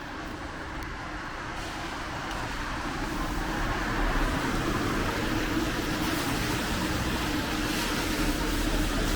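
Street traffic on a wet road: a vehicle's tyre hiss and engine hum grow steadily louder as it approaches.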